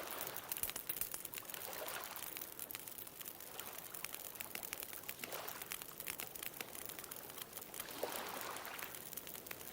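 Bonfire crackling with frequent small pops, over gentle ocean waves washing onto the shore, a swell every two to three seconds, the strongest near the end.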